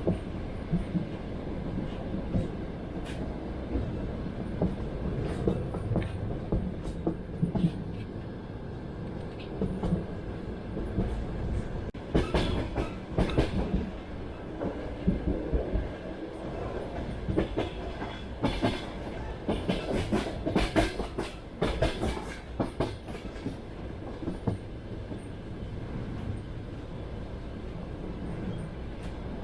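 Train wheels running over the rails, heard from inside the carriage: a steady low rumble with irregular clickety-clack from the rail joints. The clacks come thick and loud for about ten seconds in the middle, then thin out again.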